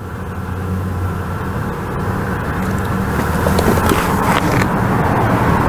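A car engine idling steadily, with a few light knocks.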